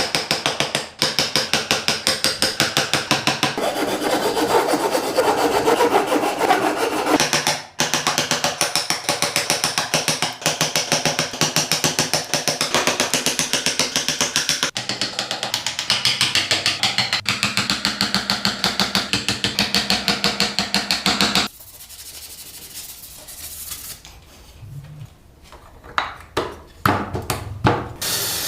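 A hand tool worked rapidly back and forth on wood, many quick scraping strokes a second, for about twenty seconds. It then stops, leaving a quieter stretch with a few knocks near the end.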